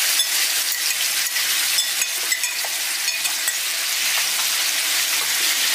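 Curd-marinated chicken pieces sizzling in hot sesame oil in a pan, stirred with a metal spoon that clicks and scrapes against the pan now and then.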